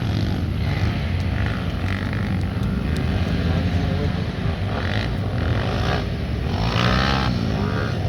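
Pit bike engines racing on the track, revving up and down, with a louder burst of revving about seven seconds in.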